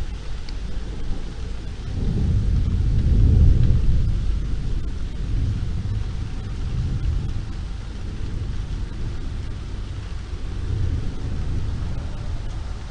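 Low rolling thunder that swells about two seconds in, peaks and slowly dies away, with weaker rumbles later, over a steady hiss of rain in a city street.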